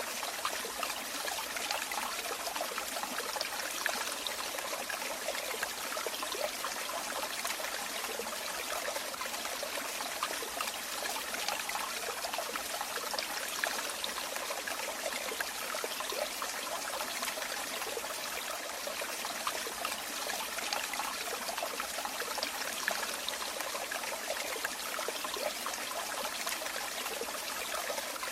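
Running water trickling and splashing steadily, a dense patter of small splashes without pauses or change, light on low rumble.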